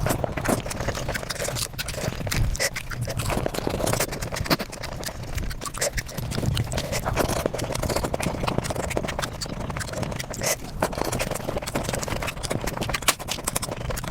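Close-miked mukbang eating sounds sped up to five times normal speed: chewing, crunching and smacking compressed into a rapid, continuous chatter of clicks and crackles.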